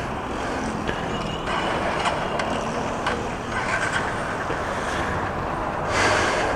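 Steady street traffic noise, with a louder swell near the end as a vehicle passes.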